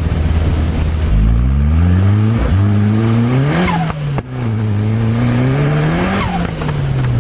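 Locost kit car's turbocharged Nissan CA18DET four-cylinder engine idling, then revving up in a long rising pull. After a sudden break about four seconds in, it rises again and falls back to idle near the end.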